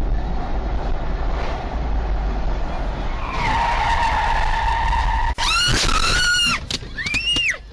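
Car tyres skidding on the road over running road and engine noise. A steady tyre squeal starts about three seconds in, then after a sudden break come shorter squeals that rise and fall in pitch.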